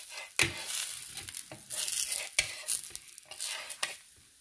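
Batter-coated bread slices sizzling in ghee on a cast-iron dosa tawa, with a metal spatula scraping and tapping against the pan a number of times.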